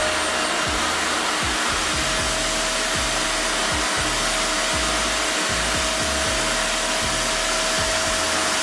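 Revair reverse hair dryer running steadily: a loud rush of air with a steady whine held through it.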